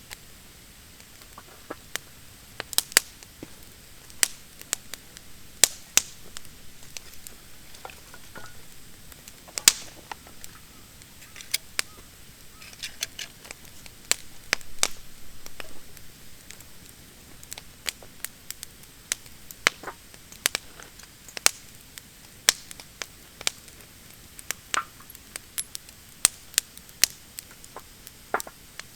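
Wood fire of thin, still-damp branches crackling, with irregular sharp pops and snaps, some much louder than others.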